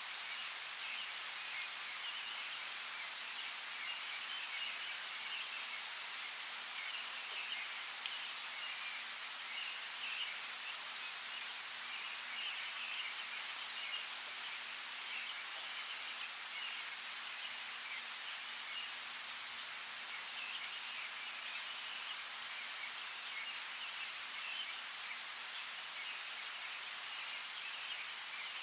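Steady rain falling, with scattered drops tapping now and then, and birds chirping through it.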